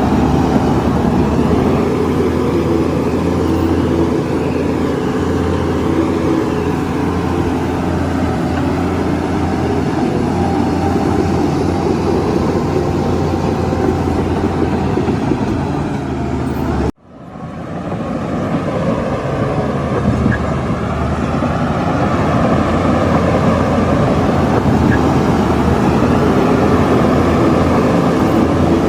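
Heavy diesel earthmoving machinery running steadily, typical of a crawler bulldozer working on a road site. The sound cuts out abruptly about 17 seconds in and fades back up.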